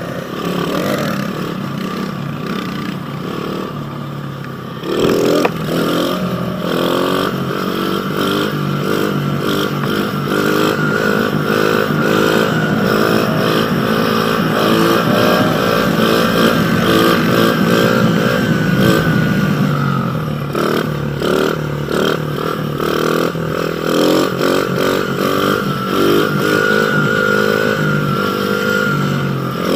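Small pit bike engine running and revving, its pitch climbing over and over in short rising steps from about five seconds in, easing off around twenty seconds, then revving up again.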